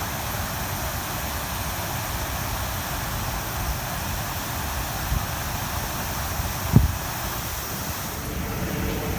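A river swollen by typhoon rain, rushing steadily, with wind buffeting the microphone in low rumbles and one stronger thump about seven seconds in.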